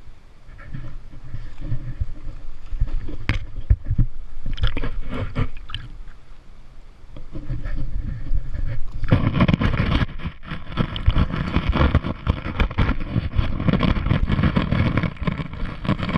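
Rushing waterfall water, uneven and gusting as it buffets the microphone, getting louder about nine seconds in.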